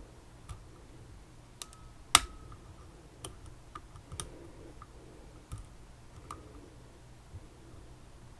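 Scattered small metallic clicks and taps from hand tools working on a Tesa TK100 lock, some with a brief faint ring, and one much louder click about two seconds in.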